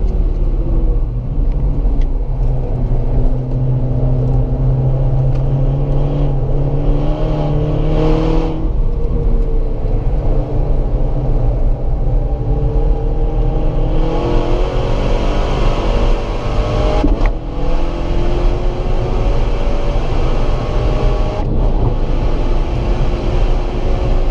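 APR-tuned third-generation Škoda Octavia RS engine heard from inside the cabin, pulling hard with its pitch climbing in long sweeps. The note breaks off and drops about eight and seventeen seconds in. A constant low road and tyre rumble runs underneath.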